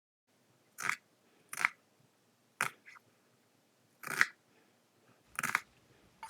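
Five short, crisp crunching cuts through food, spaced about a second apart, with a faint sixth at the very end.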